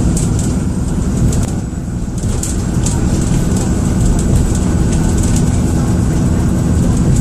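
Dennis Trident II / Enviro400 double-deck bus heard from inside while under way. The diesel engine runs with a low rumble, and over it a steady high-pitched turbocharger whistle sounds like a kettle about to boil. Short rattles come from the bus body now and then.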